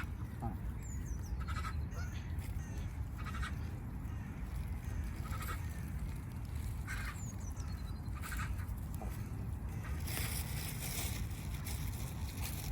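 Geese honking in short calls every second or two, over a steady low rumble, with a few faint high bird chirps.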